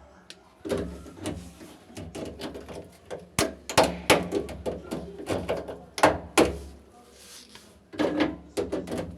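Irregular knocks, clicks and clatter of hard parts being handled, with a few sharper bangs about halfway through and a quieter gap shortly before the end.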